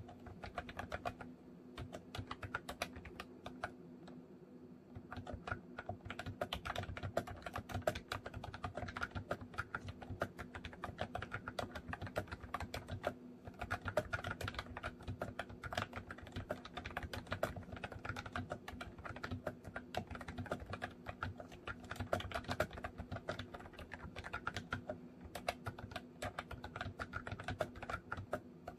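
Typing on a MOFii Retro Style Candy keyboard: a fast, dense run of key clicks. It thins to a few scattered keystrokes for a few seconds near the start, then picks up again.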